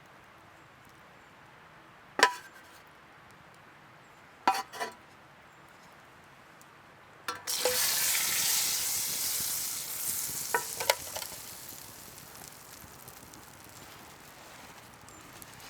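Sizzling that starts suddenly about halfway through and fades over the next few seconds. Before it come a few sharp knocks, and there are light metallic clinks while it sizzles.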